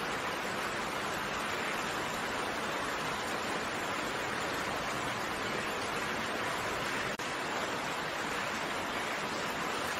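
Steady rain falling: an even, continuous hiss of raindrops with no distinct drops or thunder, briefly dipping for an instant about seven seconds in.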